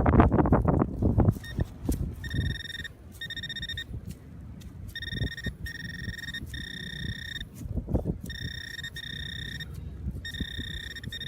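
Metal detector sounding a steady buzzing target tone in repeated stretches of about half a second to a second, with short gaps between. Wind buffets the microphone during the first second.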